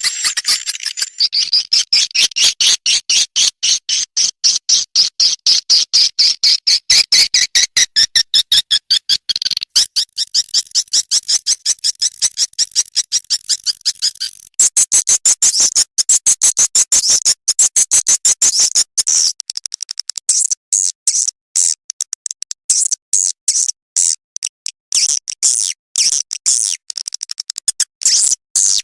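Swiftlet lure sound for a swiftlet house: rapid, evenly repeated high chirping twitters, several a second. About halfway through the pattern switches abruptly to higher, more broken chirps with short gaps.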